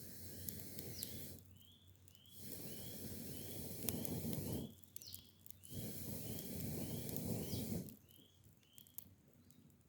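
A bird calling over and over with short, even chirps, about two a second. Under it come loud rushes of low noise lasting a second or two each, with quiet gaps between.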